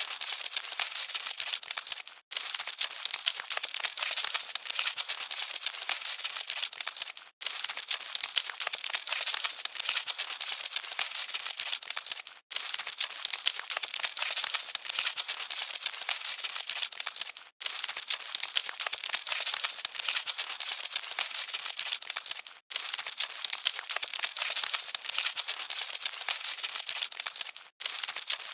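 Cockroaches scuttling: a dense, high-pitched patter of tiny scratchy clicks. It is a short loop that drops out for an instant about every five seconds and starts again.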